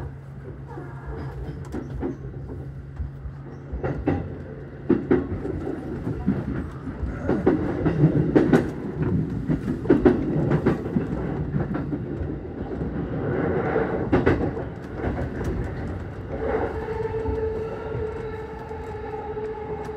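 Keihin-Tohoku line E233-series electric commuter train running, heard from inside the front car. Its wheels make a steady rumble on the rails, with sharp clacks several times as they pass over rail joints and points. A steady tone comes in near the end.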